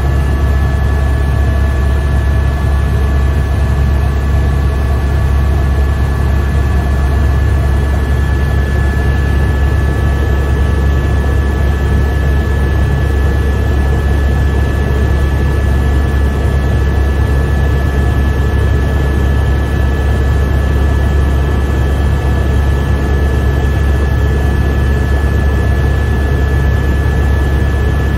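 Helicopter in steady flight heard from inside the cabin: a loud, even low drone from the rotors with a steady high-pitched whine above it.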